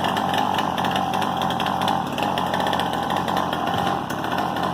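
Motocross bike engine running steadily with a high, buzzing drone.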